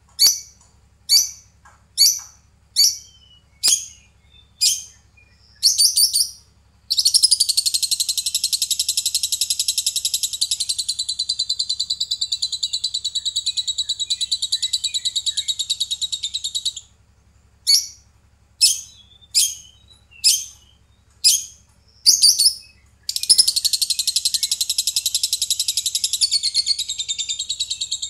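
Lovebird calling: a series of sharp, high single chirps about twice a second, breaking into a long, rapid chattering trill of about ten seconds, then more single chirps and a second long trill near the end.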